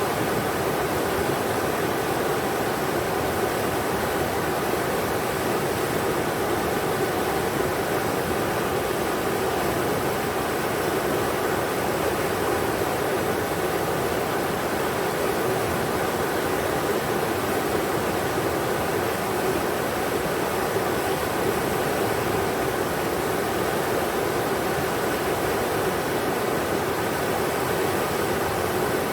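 Englishman River rushing, a steady unbroken roar of flowing water.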